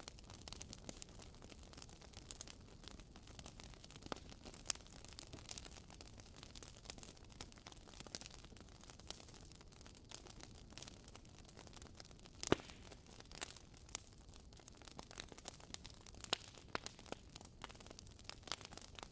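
Wood fire crackling in a fireplace: irregular sharp snaps and pops over a low, steady hiss, with one louder pop about twelve seconds in.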